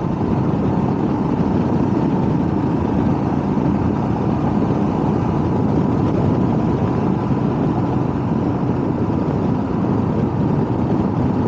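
Motorcycle riding along at a steady speed: a steady engine drone under road and wind noise, with no change in pitch.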